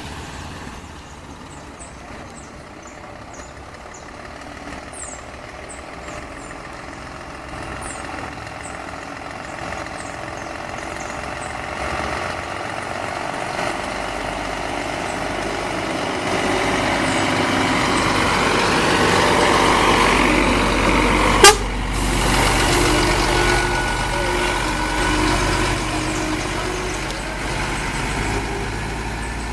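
Heavy truck's diesel engine growing louder as the truck drives up and past, with one sharp bang about two-thirds of the way through. Its horn sounds for a few seconds just after the bang.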